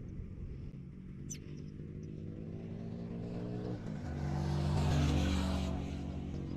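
A motor vehicle passing by: its engine hum builds, is loudest about five seconds in, then fades away.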